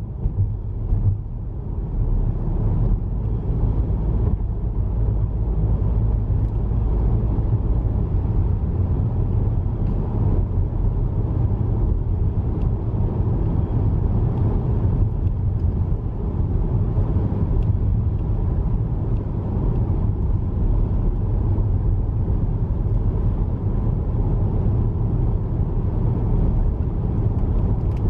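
Steady low road rumble of a car driving at speed, tyres and engine heard from inside the cabin.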